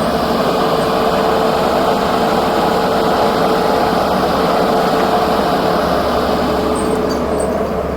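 A large engine running steadily at an even pace, with a constant hum under a dense rumble.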